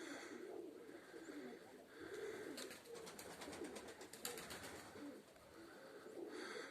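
Domestic pigeons cooing softly, in low wavering calls that run on and overlap, with a couple of short bursts of rapid fluttering clicks partway through.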